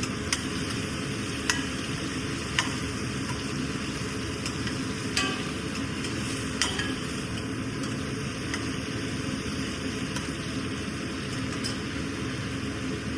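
Food sizzling and frying in a pan while being stirred, with a few sharp clinks of a metal spoon against the pan.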